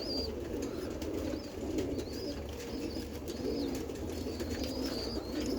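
Roller pigeons cooing softly, with short high chirps repeating every second or so.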